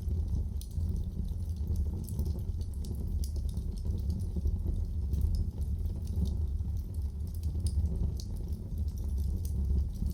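Wood fire crackling in a fireplace: a steady low rumble of the flames with many small, sharp, irregular pops and crackles.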